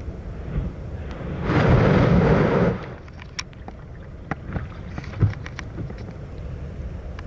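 Wind rumbling on the microphone. About a second in, a large storm wave on Lake Michigan crashes with a loud roar lasting about a second and a half, followed by scattered small clicks.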